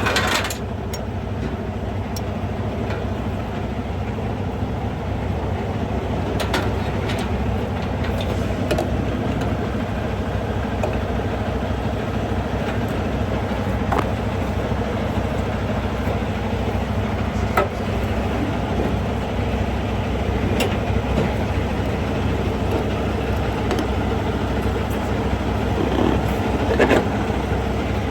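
Semi truck's diesel engine running steadily at idle, with a few short clicks and knocks scattered through it.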